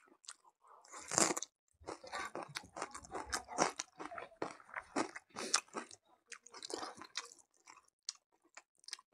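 Close-miked chewing with repeated crisp crunches: a raw red onion being bitten and chewed with a mouthful of rice and buffalo meat.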